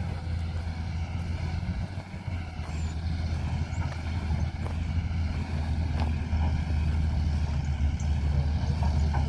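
A vehicle engine running steadily, a low rumble that grows slightly louder over the last few seconds.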